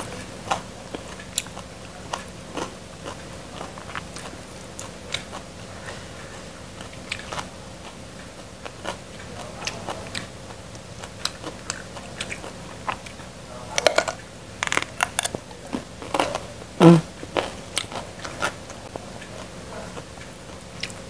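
Crunching and chewing of raw papaya stalks: scattered crisp bites and chews, with a cluster of louder snaps about fourteen to sixteen seconds in.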